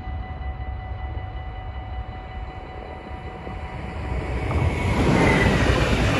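Stadler FLIRT3 electric multiple unit approaching and running over a level crossing. Its rail and running noise rises from about four seconds in and is loudest as it reaches the crossing near the end. Before that there is a low rumble with faint steady tones.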